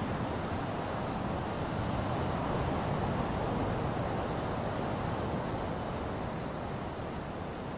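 Ocean surf: a steady rush of waves that swells to a peak about three seconds in and then slowly ebbs away.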